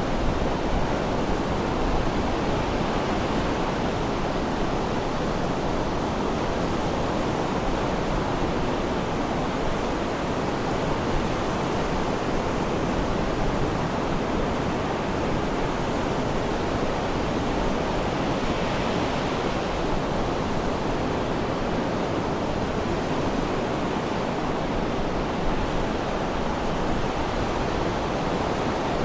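Sea surf: a steady, unbroken wash of waves with no distinct breaks or bird calls standing out.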